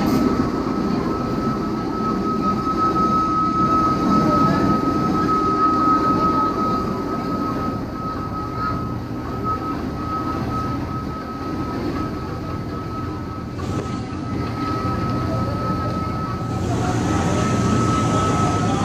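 Philippine National Railways commuter train running, heard from inside the coach: a continuous rumble with a steady high whine throughout.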